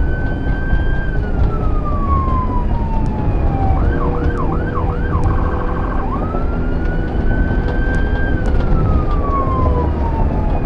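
Police car siren running a slow wail that climbs and falls over a few seconds. About four seconds in it switches to four quick yelps and a short steady tone, then goes back to a slow wail. Steady engine and road rumble runs underneath.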